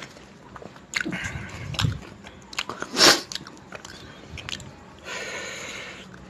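Close-up mouth sounds of a person eating chicken curry by hand: wet chewing and lip smacks, with a louder smack about three seconds in and a brief rushing noise lasting about a second near the end.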